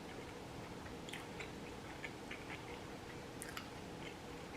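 Quiet chewing of food, with faint scattered mouth clicks and smacks.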